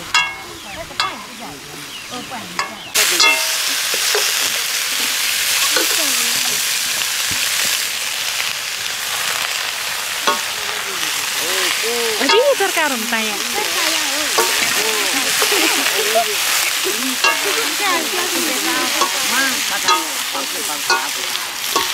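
Potatoes and leafy greens frying in hot oil in a metal wok: a loud, steady sizzle that starts suddenly about three seconds in, with a metal ladle scraping and clinking against the pan as it is stirred.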